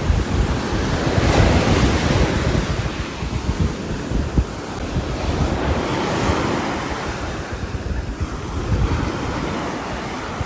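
Steady rain falling on a roof, a dense hiss that swells and eases twice, over a low rumble.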